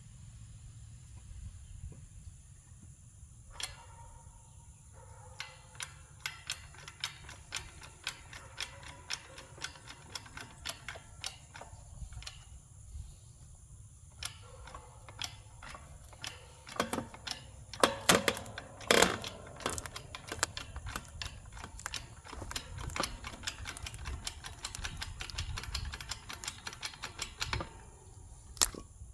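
Hand-pumped hydraulic jack of a homemade engine-hoist log splitter being worked, a long run of sharp clicks from the pump handle and jack stroke after stroke. A few louder cracks a little past halfway as the log is forced against the splitting head.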